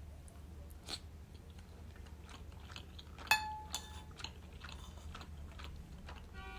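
Close-miked chewing of boiled pelmeni dumplings, soft wet mouth sounds with small clicks. A metal utensil clinks sharply once against the plate about three seconds in and rings briefly.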